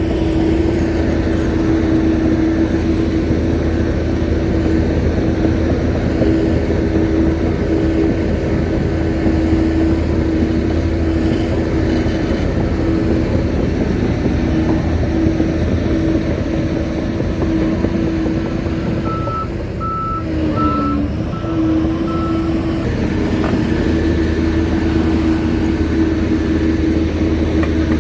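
Shantui bulldozer's diesel engine running steadily under load. Past the middle, its reversing alarm beeps several times in an even series as the engine note dips briefly and then comes back up.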